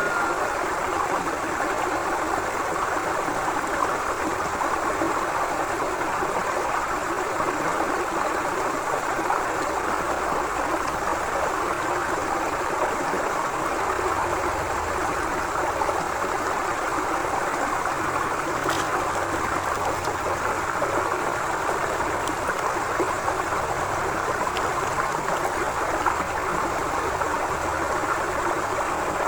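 Forest river flowing: a steady, even rush of running water that neither swells nor breaks off.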